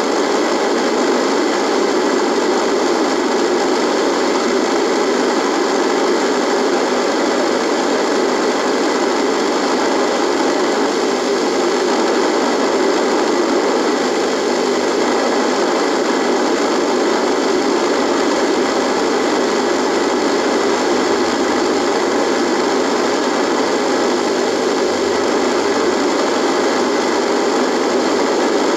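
Radio buzzing: a steady, unchanging static buzz, strongest in the low middle range, with faint steady tones running through it.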